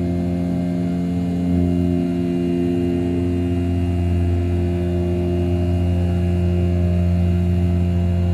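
The 500 W brushless spindle of an RZ420 desktop CNC mill, roughing A7075 aluminium at 6000 rpm. It makes a steady, loud, pitched drone with a low hum and a row of evenly spaced overtones, changing slightly every couple of seconds as the cut load varies.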